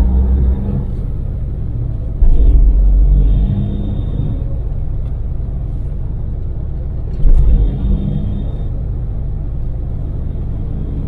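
Steady engine and road rumble inside the cabin of a Daewoo Damas minivan, a manual running on LPG, cruising on an expressway. There are two louder low booms, one about two seconds in lasting around a second and one about seven seconds in.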